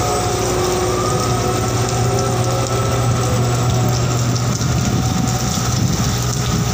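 Heavy rain pouring onto a ship's steel deck and splashing off the overhang, over a steady low engine hum.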